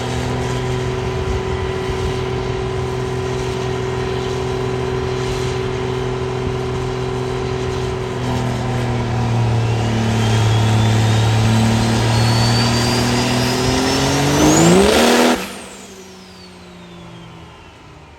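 High-horsepower diesel truck engine running hard at a steady note, then climbing in revs with a turbo whistle rising in pitch. The throttle is released abruptly about fifteen seconds in, and the turbo whistle winds down.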